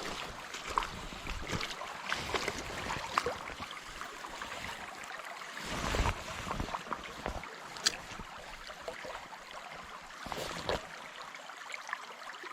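Shallow trout brook running, with scattered close splashes and ticks from wading and casting, and gusts of wind buffeting the microphone now and then.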